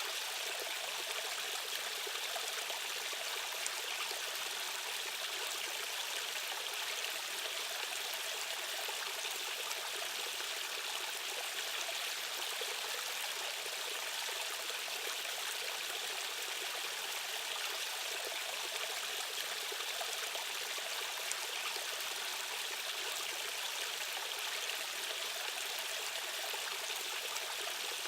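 Water rushing steadily over rocks in a stream or small waterfall: an even, hissy wash with little low rumble.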